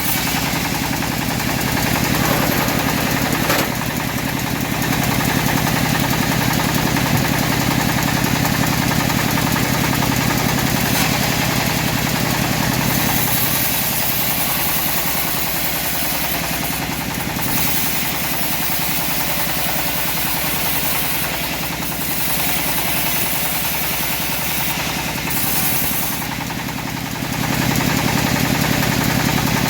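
Engine-driven homemade band sawmill running steadily while it saws teak. Its drone grows a little louder a couple of seconds in and again near the end.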